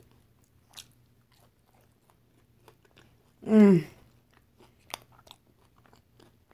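A woman chewing a mouthful of loaded nacho chips, with faint scattered crunches. About three and a half seconds in comes a short, loud, falling vocal 'mm' of enjoyment.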